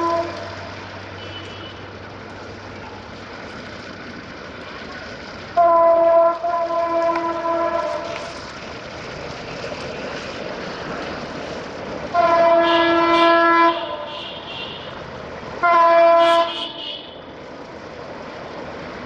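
Chitra Express locomotive horn sounding three times, a long blast then two shorter ones, each a steady chord-like tone, over a continuous rushing noise of the train and wind.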